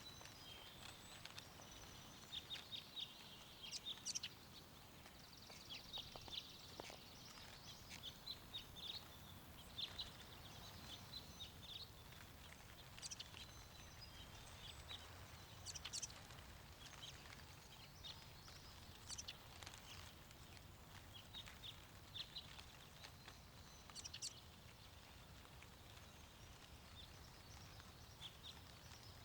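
Songbirds chirping and trilling on and off throughout, over a faint low rush of wind.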